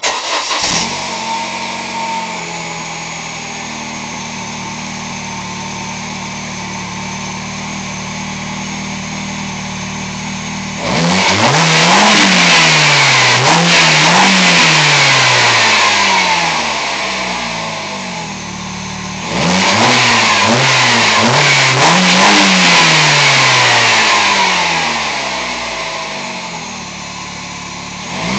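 Engine of a Mini Cooper tuned to over 500 hp starting up suddenly and idling steadily for about ten seconds, then revved in quick repeated throttle blips that rise and fall in pitch. It drops back briefly, is revved again in a second run, and settles back to idle near the end.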